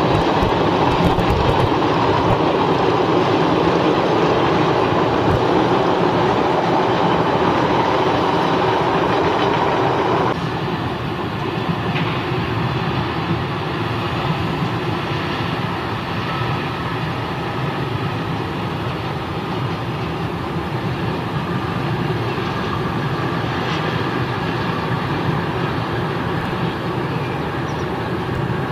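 Passing electric passenger trains (stainless-steel suburban coaches, then double-deck coaches): a steady rolling noise of wheels on rail joints with some clickety-clack. The sound drops abruptly in level about ten seconds in, and from there on a different train runs past more quietly.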